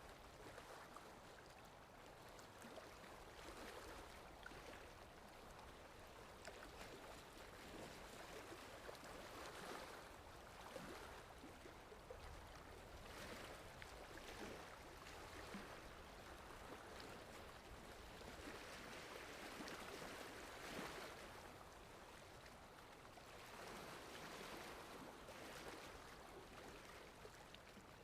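Faint sea waves washing in, swelling and falling back every few seconds.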